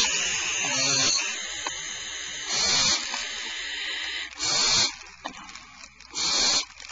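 Barn owl nestlings hissing, the rasping screech-hiss of young barn owls. It runs on through the first second, then comes in separate bursts about every one and a half to two seconds.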